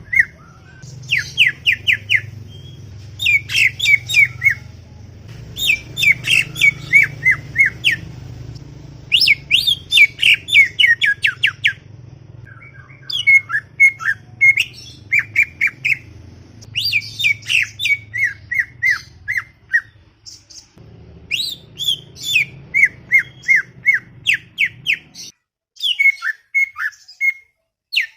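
Green leafbird (cucak ijo) singing in repeated short phrases of rapid, falling chirps, a new phrase every two to three seconds. A low steady hum sits under it and stops near the end.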